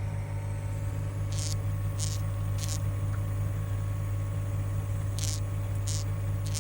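FX STP pump feeding a reactor, running with a steady hum and a short high-pitched hiss or squeak that comes in two groups of three, about 0.6 s apart. This is the noise it keeps making although it is fully tensioned and its feed is unrestricted.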